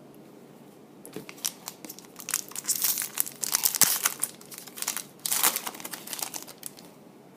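Trading card pack wrapper being torn open and crinkled by hand, a run of irregular crackling rustles in two spells, the longer one in the middle and a shorter one after a brief pause.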